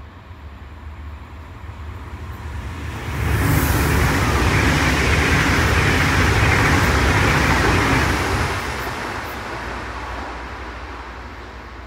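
Trenitalia Frecciarossa high-speed electric train passing through at speed: the roar of wheels on rail and rushing air comes in suddenly about three seconds in, holds steady, then slowly fades as the train runs off into the distance.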